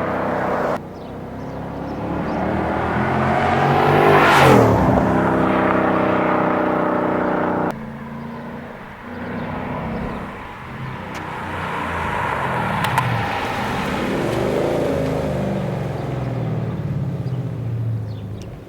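2015 Ford Mustang GT's 5.0 V8 through an MBRP race exhaust with H-pipe, accelerating past: the exhaust note climbs as the car approaches and drops in pitch as it goes by. This happens twice, and the sound cuts off abruptly between takes.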